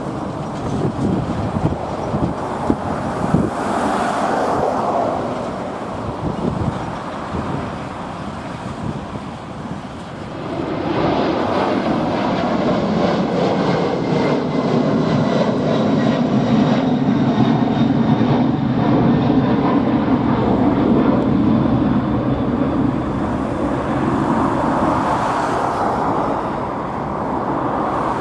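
Gusty wind noise and road traffic, then from about ten seconds in a jet airliner's engines at takeoff thrust: a steady, loud rumble with a faint high whine, easing slightly near the end.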